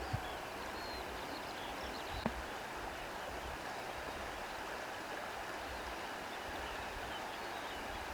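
Steady hiss of water and wind through reeds, with faint high chirps scattered through it and two brief soft ticks.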